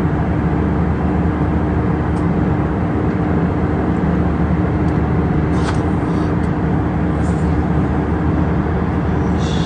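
Steady rumble of a moving vehicle, with a constant hum, unchanging in level.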